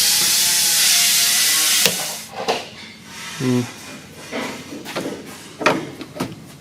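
A loud, steady hiss of gas escaping under pressure, which cuts off sharply about two seconds in. It is followed by scattered light clicks and knocks of hand-tool work on metal parts.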